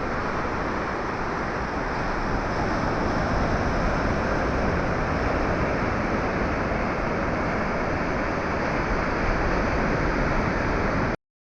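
Steady rushing noise of sea surf washing onto the beach, with wind on the microphone.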